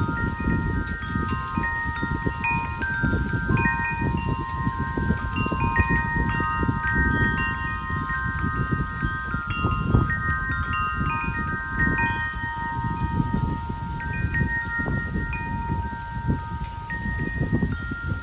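Wind chimes ringing in the wind, several tuned notes struck at random and overlapping as they ring on. Gusts rumble on the microphone underneath.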